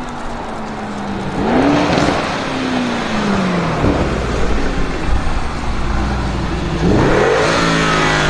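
Audi RS Q8's tuned twin-turbo 4.0-litre V8, 840 hp, revving. Its pitch climbs about a second in and falls away, then a sharper rev rises near the end and holds.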